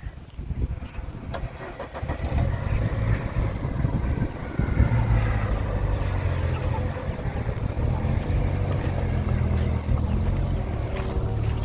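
A vehicle engine running with a steady low drone, getting louder about two seconds in and again near five seconds, then holding steady.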